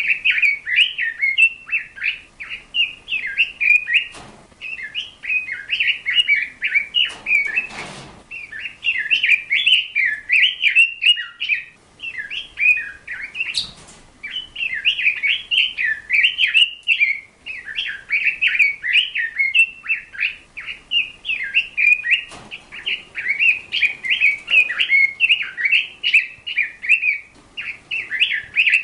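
Small birds chirping and twittering in a fast, nearly continuous stream of high notes, with short pauses every few seconds. A few faint knocks are heard, the most noticeable about eight seconds in.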